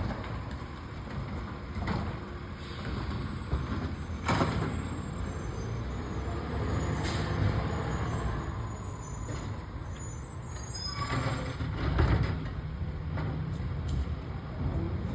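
Garbage truck engine running steadily, with a handful of sharp knocks and clanks spread through it.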